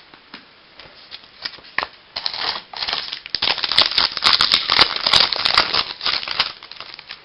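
Baseball card pack and cards being handled: a few light clicks and taps, then about four seconds of crinkling and rustling from about two seconds in, as of a foil pack wrapper being torn open and cards being shuffled out.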